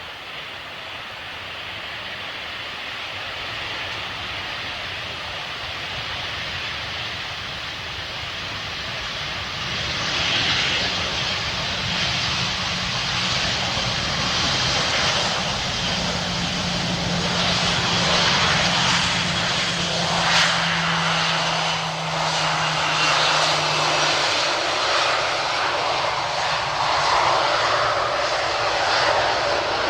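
Airliner's engines passing overhead: the sound builds over the first ten seconds and stays loud, and a faint whine slowly falls in pitch as the aircraft goes by.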